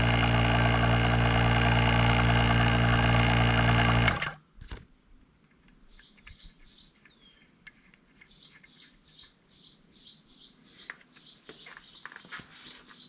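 ZENY electric A/C vacuum pump running steadily, then stopping abruptly about four seconds in. After that, birds give a rapid series of short, high chirps.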